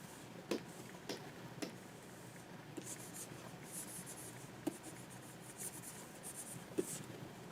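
Stylus nib scratching in short strokes across a Wacom pen tablet's surface, with half a dozen light, sharp taps scattered through.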